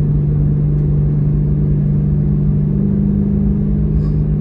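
BMW E92 M3's 4.0-litre V8 running steadily at light cruise through its Valvetronics valved exhaust, a low, even drone that firms slightly about three seconds in.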